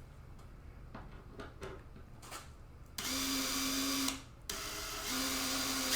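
A few light clicks of handling, then a power drill starts about halfway in and runs at a steady speed. It stops for about half a second and runs on.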